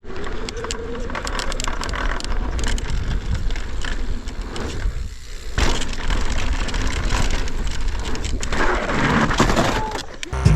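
Mountain bike ride on a trail heard from an onboard camera: steady wind noise on the microphone, with rattles and knocks from the bike over rough ground.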